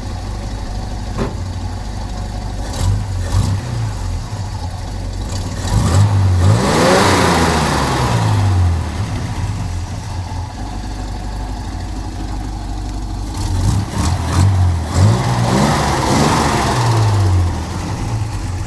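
An engine running steadily, revved up and back down twice: once about six seconds in and again about fifteen seconds in.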